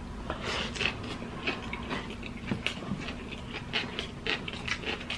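Close-up chewing and lip-smacking of people eating rice and hotdogs by hand: many quick, irregular wet mouth clicks. Under them runs a steady low hum.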